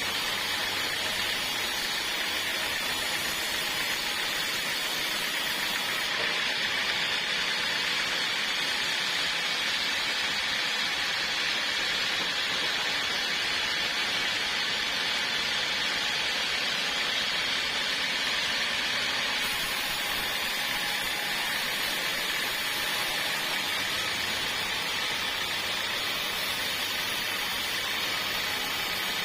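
Portable sawmill running and cutting through a log: a steady, even, hissing machine noise that does not let up.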